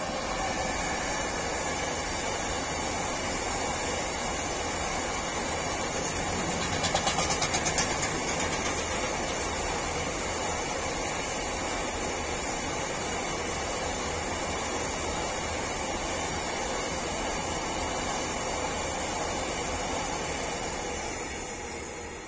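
Electric freight train passing, an electric locomotive hauling a string of tank wagons: a steady rumble and rush of wheels on rails. There is a brief run of rapid clatter about seven seconds in, and the sound fades as the last wagons go by near the end.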